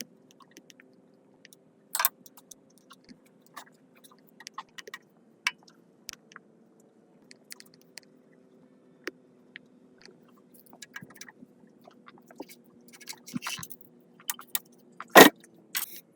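Scattered small clicks and taps from metal parts and tools being handled, growing busier later on, with one louder sharp knock near the end, over a faint steady hum.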